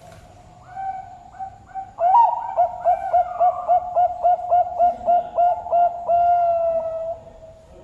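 A Bangkok-type perkutut (zebra dove) singing its full cooing song. It begins with a few soft notes, breaks into a loud, quick run of repeated coos at about three or four a second, and ends on one long held note.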